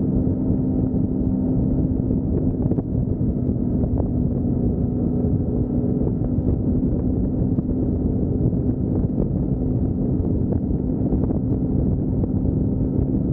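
Motorcycle cruising at a steady highway speed: a constant engine drone at an unchanging pitch, mixed with wind rushing over the microphone.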